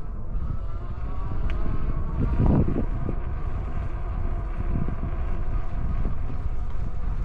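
Wind buffeting the microphone and tyre rumble on a moving e-bike, with a faint whine from the Rad Power Bikes hub motor that wavers slightly in pitch. There is a louder rumble about two and a half seconds in.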